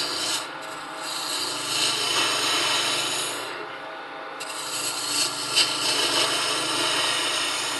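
Wood lathe running while a 1/2-inch bowl gouge cuts the end of a spinning wood blank into a round: a steady scraping shaving noise over the lathe's hum. The cutting noise drops out briefly twice, about half a second in and again around three and a half seconds, as the tool comes off the wood.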